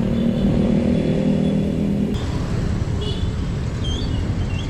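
A motor vehicle's engine running close by in traffic, a steady low drone that cuts off about two seconds in, over continuous road and wind rumble.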